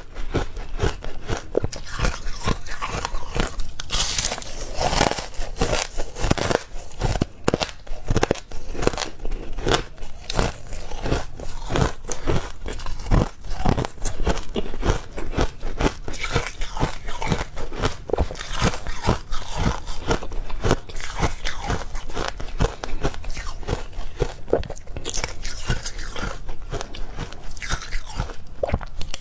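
Close-miked crunching of ice being bitten and chewed, a rapid, irregular run of sharp crunches.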